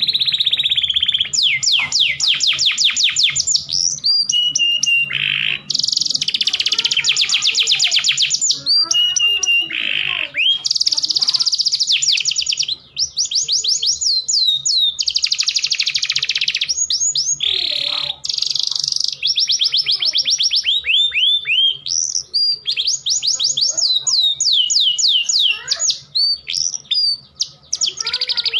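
Domestic canary song: fast rolling trills of repeated down-slurred notes, changing every second or two, broken by held whistled tones. The singing goes on almost without a break.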